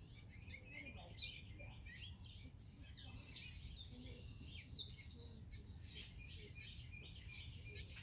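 Many red-winged blackbirds chirping and calling at once: a faint, dense chatter of short high notes over a steady low rumble.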